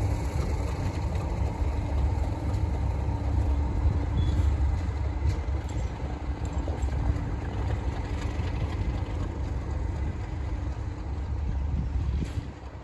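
English Electric Class 37 diesel locomotive's V12 engine running with a steady low rumble.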